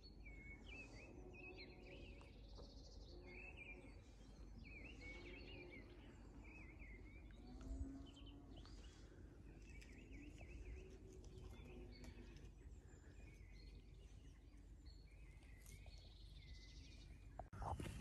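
Faint birdsong: short chirps and twittering calls repeating over a quiet low rumble of countryside ambience. A single soft thump a little before halfway.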